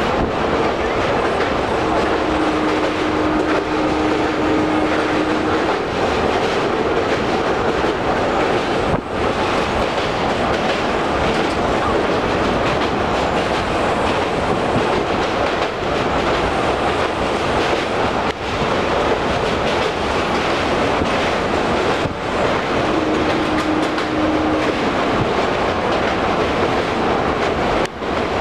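Passenger train running at speed, a loud steady rumble with the wheels clattering over the rails, heard from a carriage window. A steady tone sounds for a few seconds near the start and briefly again near the end.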